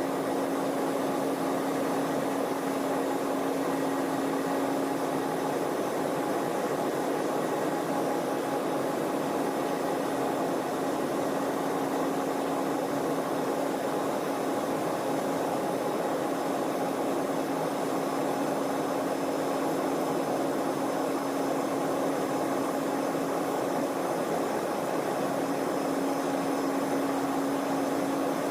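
Steady cabin noise inside a Boeing 737-900ER airliner: an even rushing noise with a constant low hum that does not change.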